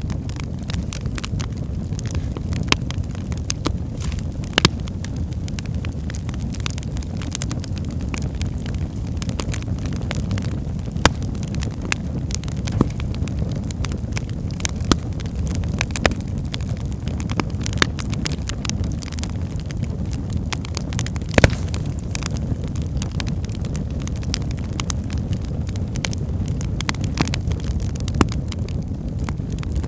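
Wood fire burning in a fireplace: a steady low rumble of flames with many sharp crackles and pops of the logs, one louder pop about 21 seconds in.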